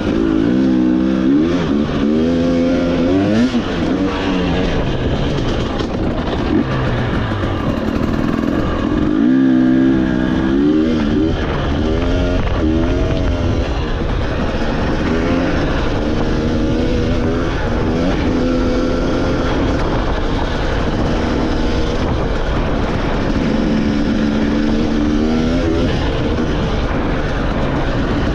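Off-road motorcycle engine running under load on a trail, its pitch rising and falling over and over with throttle changes and gear shifts, over a steady rush of noise.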